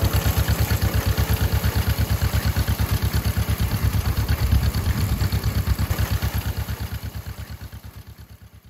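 Old tractor engine running with an even pulse of about eight beats a second. It fades out over the last few seconds.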